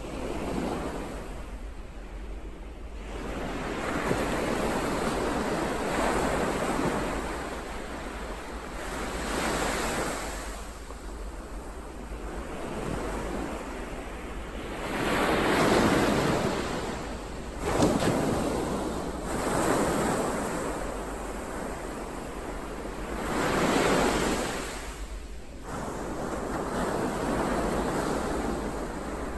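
Ocean waves breaking and washing on the shore, the surf rising and falling in surges every few seconds.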